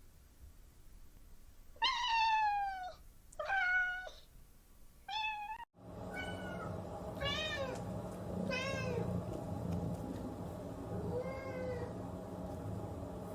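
Domestic cats meowing: three loud, drawn-out meows that fall in pitch in the first half, then after an abrupt cut, four fainter meows over a steady background hum.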